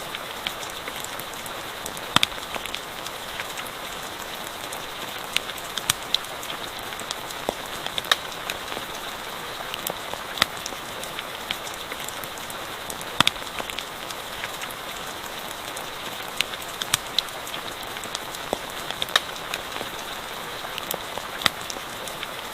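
Steady rain with a campfire crackling under it: a constant hiss broken by irregular sharp pops every second or so.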